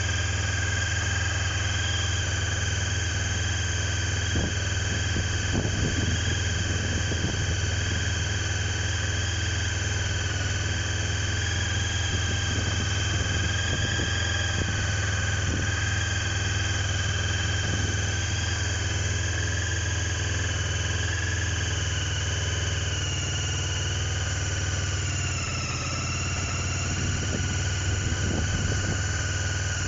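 Honda CB500's parallel-twin engine idling steadily after a cold start, with a steady high whine over the low engine drone. The pitch sags briefly a few seconds before the end, then recovers.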